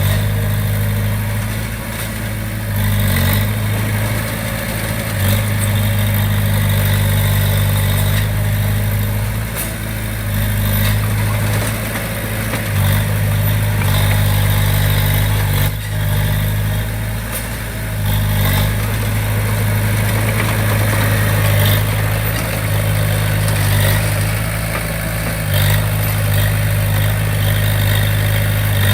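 Diesel engine of a small Komatsu D20P crawler bulldozer running steadily, a strong low hum that swells and dips slightly.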